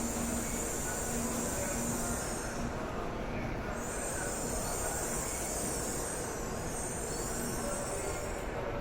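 Shinkansen train noise: a steady hum and rushing hiss, with a high hiss that fades and returns over a few seconds.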